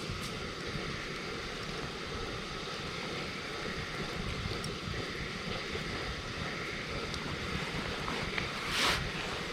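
Campfire burning: a steady rushing noise with a few faint crackles, and one short louder hiss near the end.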